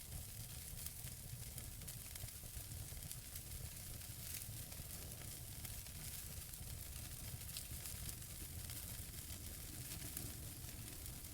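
Wood logs burning in a fireplace: a steady hissing crackle over a low rumble, with many small scattered pops.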